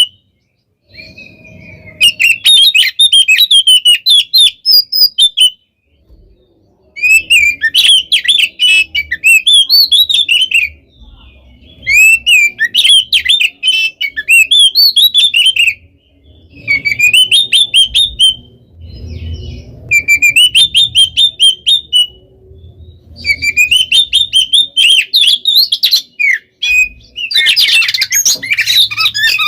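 Oriental magpie-robin (kacer) singing loudly, rapid runs of varied whistles and chattering notes in repeated bouts of a few seconds with short pauses between; the last bout, starting near the end, is the densest and loudest.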